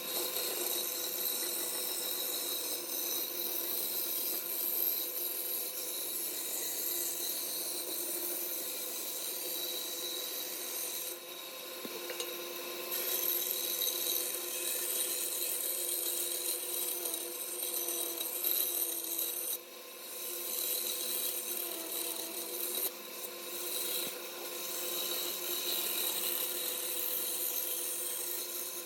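Electric power tool running steadily while abrading palm wood, a continuous rasping with a steady motor hum, easing off briefly about 11 and 19 seconds in.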